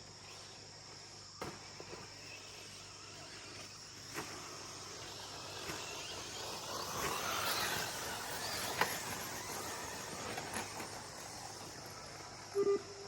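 2wd short course RC trucks running on a dirt track, their noise swelling as they pass in the middle, with a few sharp knocks. Steady cricket and insect chirring underneath, and two short beeps near the end.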